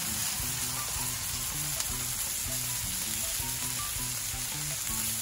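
Steady sizzle of filet mignon steaks topped with garlic butter and sliced russet potatoes frying on a hot flat-top griddle.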